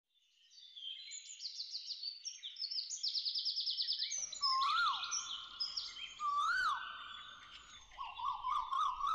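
Several birds singing: rapid high trills and chirps, joined about four seconds in by a lower, repeated whistle that rises and falls.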